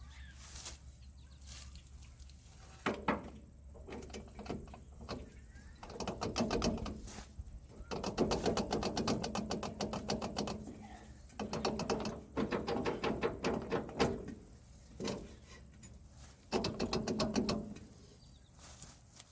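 Metal clicking, rattling and clunks as the implement's PTO driveline yoke is worked onto the tractor's PTO shaft. The coupling is stubborn and does not slide fully home. Long runs of fast clicking come in bursts, with single knocks between them.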